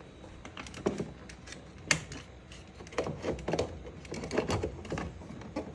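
Irregular small plastic clicks and rattles of a speaker wiring connector being handled and plugged in inside a truck door, with a sharper click about two seconds in.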